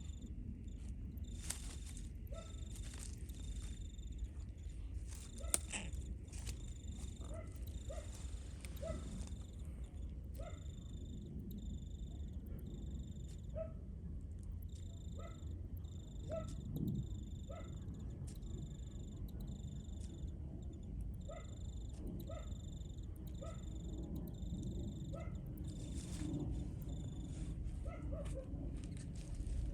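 An animal's short, small calls repeating about once a second over a steady low rumble.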